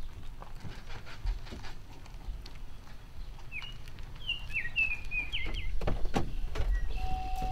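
A songbird sings a short run of quick chirping notes from about three and a half seconds in, over a low steady rumble. A few sharp knocks follow near the end, and a steady high tone begins just before it ends.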